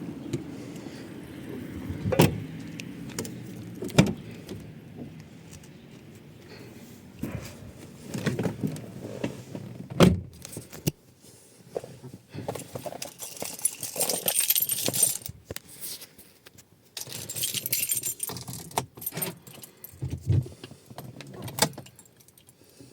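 A car's diesel engine running steadily, which stops after a sharp knock about ten seconds in. Keys then jangle in two bursts, among scattered clicks and knocks.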